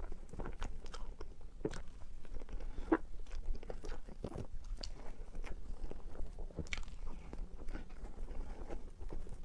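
Chewing a mouthful of matcha and red bean mille crepe cake: irregular soft, wet mouth clicks and smacks.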